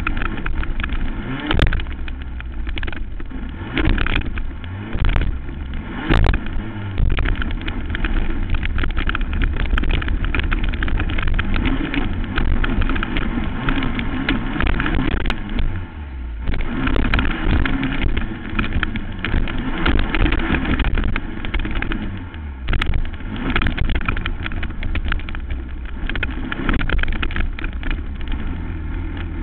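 Racing quad's engine revving hard under race load, with brief easings of the throttle about halfway through and again a few seconds later, mixed with sharp knocks and rattles from the rough track.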